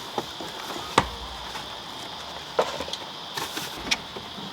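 Steady high chirring of crickets, with a few sharp knocks or clicks scattered through: one about a second in, another past halfway and one near the end.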